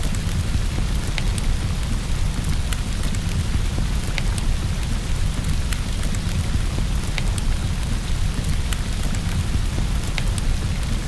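Steady rain with a low, continuous rumble underneath, and scattered sharp crackles and pops from a wood fire in a fireplace.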